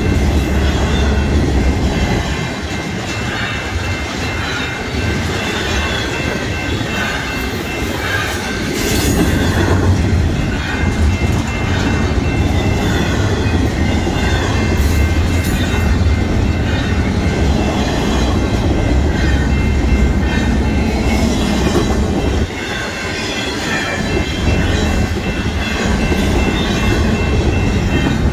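Double-stack intermodal container train rolling past: a steady rumble and clatter of wheels over the rails, with short dips in the rumble twice. A grade-crossing bell rings steadily over the train noise.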